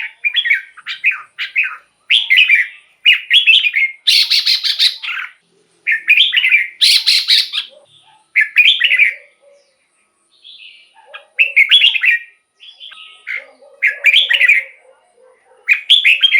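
Red-whiskered bulbul singing: a string of short, loud warbled phrases, each under a second long, with brief pauses between them; a few phrases in the first half come out harsher and louder.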